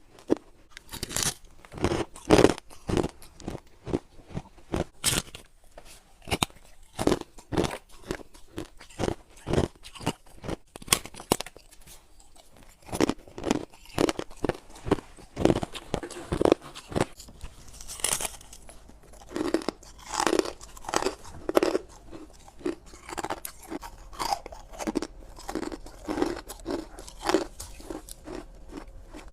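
Close-up biting and chewing of frosty freezer ice cubes: a steady run of sharp, loud crunches, about one or two a second, with a brief pause partway through.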